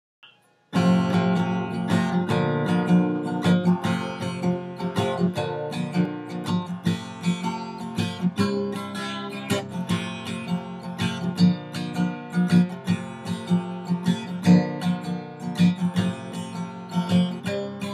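Acoustic guitar playing an introduction, picked and strummed, starting just under a second in.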